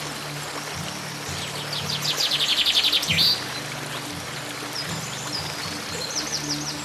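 A bird sings a fast trill of repeated high notes, about ten a second, for about a second and a half starting some two seconds in, followed by a few short high chirps near the end. Soft background music plays underneath.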